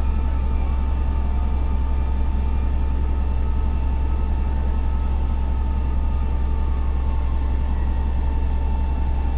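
Fire engine's diesel engine running steadily, heard from inside the cab: a constant low drone with a thin steady whine above it.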